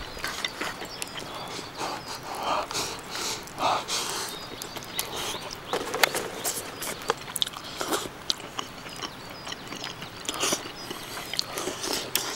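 Close chewing and lip-smacking of someone eating, with scattered sharp clicks of chopsticks against the mess tin and bowl.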